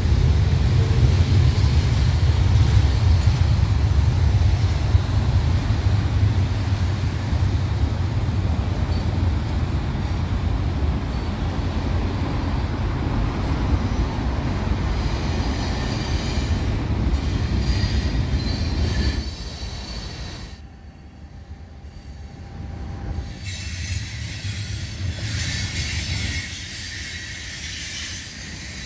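Freight train of tank cars rolling past: a heavy low rumble that drops away suddenly about two-thirds of the way through, then steel wheels screeching high and thin on the rails.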